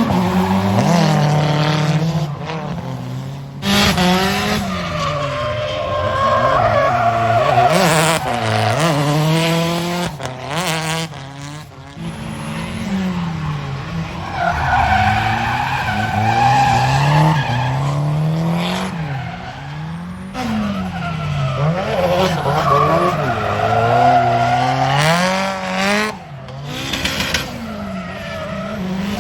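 Drift cars at full throttle, engines revving up and down through shifts with tyres squealing as they slide. The sound breaks off abruptly several times as one clip cuts to the next.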